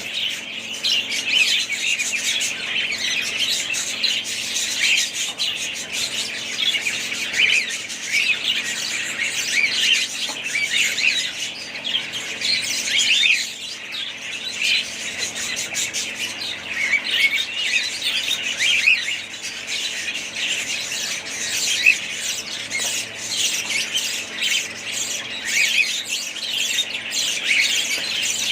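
A flock of budgerigars chattering, with many overlapping short chirps and squawks that keep on without a break.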